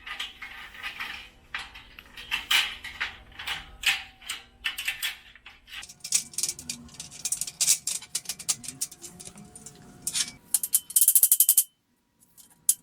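Steel shelf parts clinking and clattering as they are handled and slotted together, with a burst of fast metallic rattling near the end.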